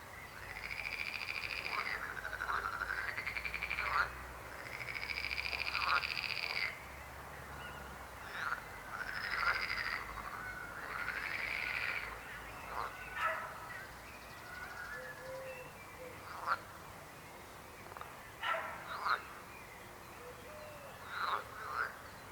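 Frogs croaking: three long, pulsed calls of about two seconds each in the first seven seconds, then shorter calls scattered through the rest.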